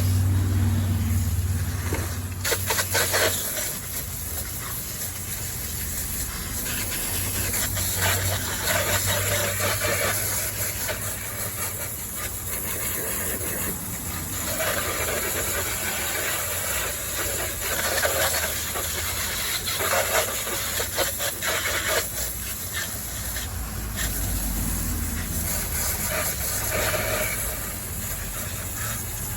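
Water spray hissing in uneven bursts as an RC car's chassis is rinsed off during cleaning, with a low hum at the start and again at times.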